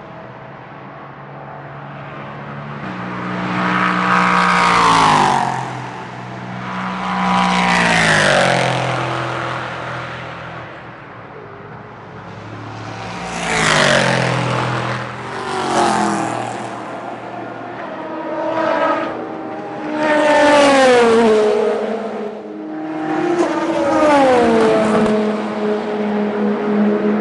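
Racing cars passing one after another at speed, about seven in all, each engine note swelling and then dropping in pitch as it goes by.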